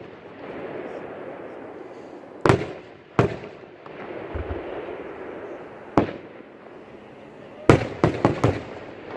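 Aerial fireworks shells bursting: single sharp bangs about two and a half, three and six seconds in, then a quick cluster of four bangs near the end, over steady background noise.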